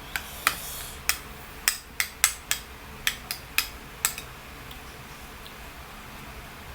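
About a dozen sharp knocks and clinks of kitchen utensils against cookware, coming irregularly through the first four seconds and then stopping.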